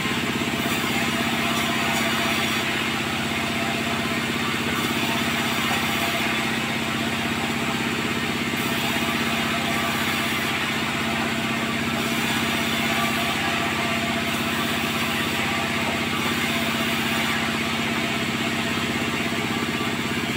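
Sawmill machinery running steadily: a constant, even engine hum with a hiss of mechanical noise above it, with no breaks or changes.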